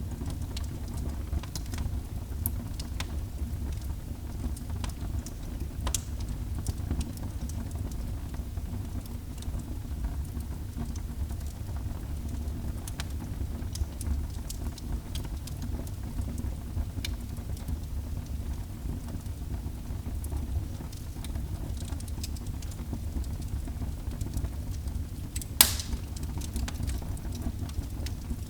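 Wood fire burning in a fireplace: a steady low rumble with scattered small crackles, and one louder pop near the end.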